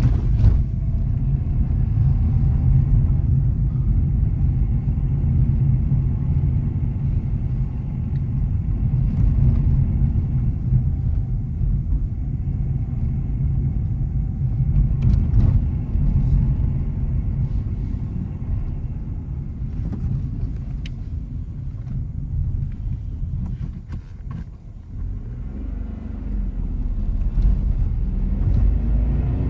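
Nissan Magnite's three-cylinder petrol engine and tyres on the road while driving: a steady low rumble that drops briefly about three-quarters of the way through, then builds again.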